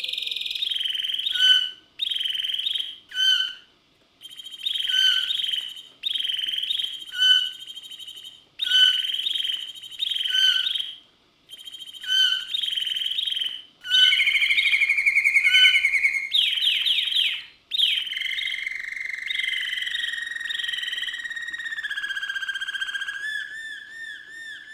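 Caged songbirds singing: repeated high whistled notes and chirps in short phrases with brief gaps, a fast buzzy trill about midway, then long held whistles that waver near the end.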